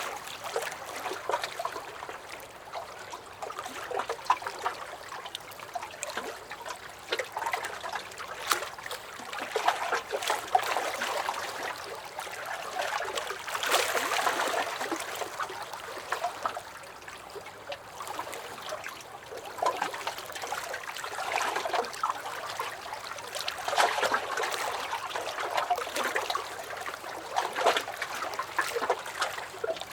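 Small lake waves lapping and sloshing against a dock, with little splashes and trickles that swell every few seconds and then ease off.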